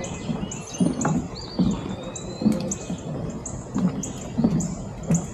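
Birds calling: a short high chirp repeated about twice a second, with another bird's gliding whistle about a second and a half in, over the regular thud of footsteps on a trail.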